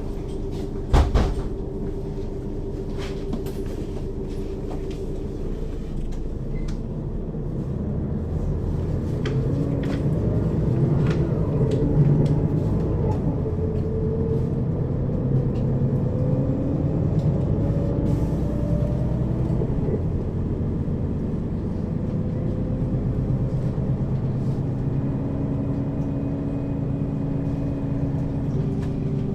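Mercedes-Benz Citaro city bus with a ZF Ecomat 2 6HP-592 C automatic gearbox, heard from inside over the second axle while driving. There is a sharp knock about a second in. The running sound grows from about eight seconds in, with a slowly rising whine as the bus pulls harder.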